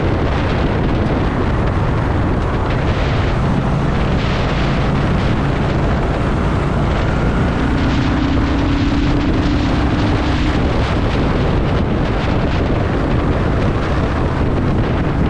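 Honda Shadow VT750's V-twin engine and exhaust running while the motorcycle rides through city traffic, with wind buffeting the microphone.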